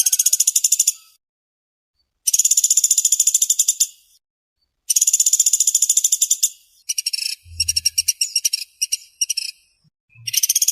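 Pelatuk sampit (pelatuk beras) woodpecker calling in fast, tight, high trills of rapid ticks. The trills come in bursts of one to two seconds with short gaps, about five in all, and the fourth is broken into short choppy pieces.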